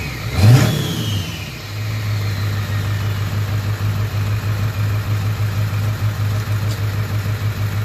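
Straight-piped 7.3 Powerstroke V8 turbodiesel blipped once, its Garrett GT38R ball-bearing turbo whistling and falling in pitch as it spools down, then settling into a steady, pulsing idle.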